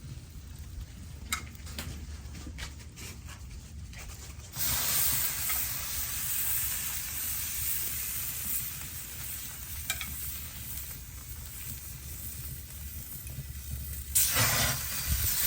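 Pan of rouladen in stock sizzling over the charcoal fire of a kamado grill. The hiss starts suddenly about four and a half seconds in after a few light clicks, breaks off briefly near the end, then comes back louder.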